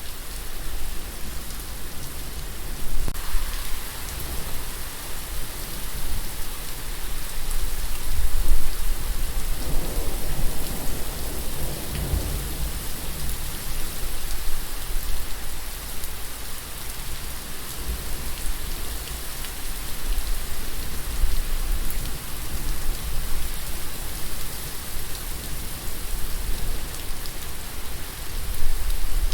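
Steady rain falling, an even hiss of drops, with a low rumble of thunder swelling up and fading away about a third of the way in.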